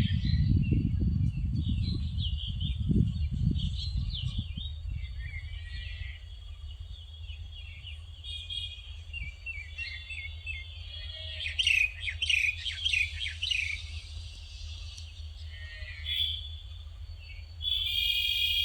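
Birds chirping and calling in many quick overlapping notes, busiest in the middle. A low rumble fades away over the first several seconds.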